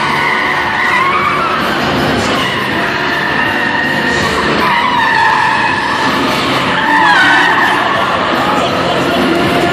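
Car tyres squealing as cars skid and drift, in long wavering squeals that come and go, over a steady bed of engine and tyre noise.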